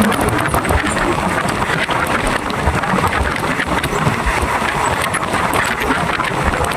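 Running noise of a passenger train heard on board: a steady rumble and rattle with frequent short clicks from the wheels and carriage.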